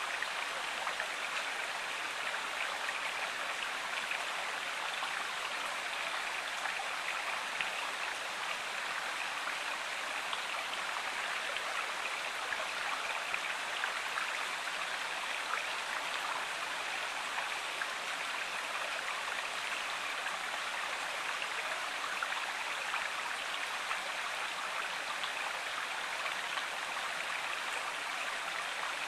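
Stream or river water flowing and splashing steadily, an even rushing sound with a fine patter.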